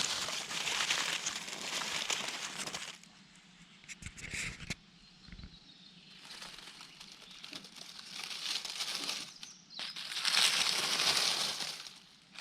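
Rustling of wet forest undergrowth and leaf litter in three spells, with a few short cracks, like small twigs, in the quieter stretch between them.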